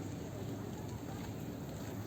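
Steady outdoor background noise, an even low rumble without distinct events, with faint distant voices mixed in.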